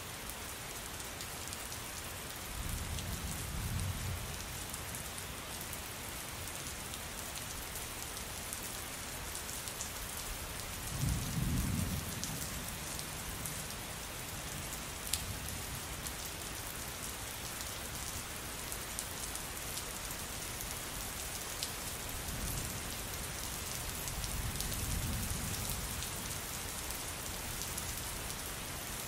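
Steady heavy rain hissing on a surface, with low rolls of distant thunder rumbling three times: a few seconds in, a louder one near the middle, and a longer one toward the end.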